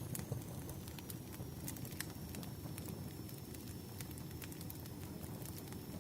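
Bonfire crackling: a steady low rumble of burning with scattered sharp pops and snaps throughout.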